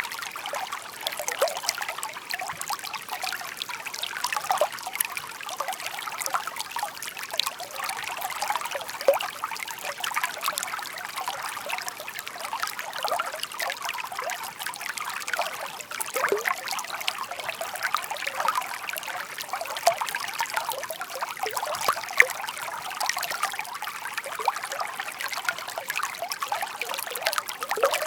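Shallow stream babbling and trickling over stones, a steady run of small splashes and bubbles with no pause.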